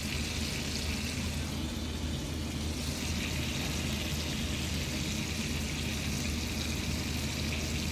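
Food frying in hot oil: a steady sizzle, with a low steady hum underneath.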